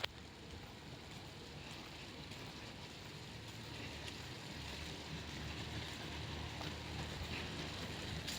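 Steady outdoor background noise, a low rumble with a hiss, slowly growing louder.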